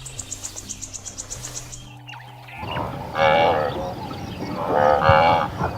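Farm animals bleating: loud calls about half a second long with a wavering pitch, starting a little over two seconds in and repeating. Before them, background music with held notes and a quick ticking.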